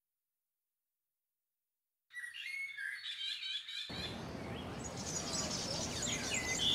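Silence for about two seconds, then birds chirping in quick short calls. About four seconds in, a steady noisy outdoor ambience joins underneath while the chirping goes on.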